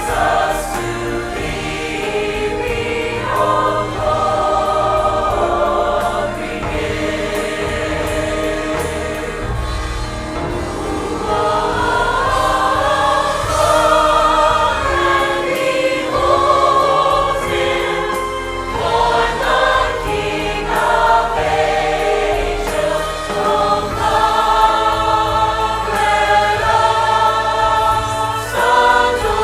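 Church choir singing together over instrumental backing.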